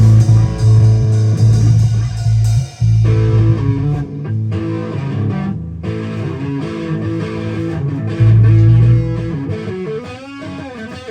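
Amplified guitars playing a rolling, bluesy riff in A that moves from the minor to the major third. The low notes are the strongest and drop away and return near the end.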